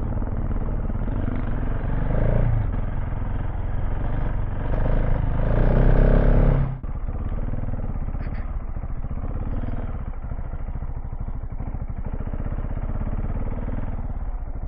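KTM 690 Enduro R's single-cylinder engine pulling at low speed off-road. The throttle opens briefly about two seconds in, then opens longer and louder before being shut off sharply about halfway through, after which the engine runs on steadily at a lower level.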